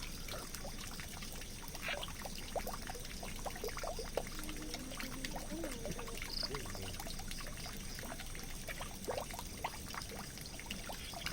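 Water pouring and trickling steadily into a drain, an even splashing flow.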